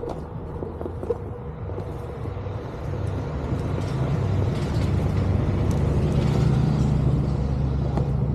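Low, steady rumble of riding a OneWheel GT electric board along a trail, with a few light knocks near the start; the rumble grows louder about three seconds in, as wind and tyre noise pick up.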